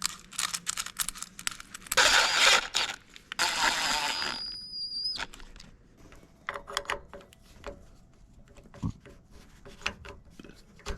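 Hands working on an electrical connector and wiring: small clicks and scrapes, with two loud tearing, squealing noises about two and three and a half seconds in, the second ending abruptly.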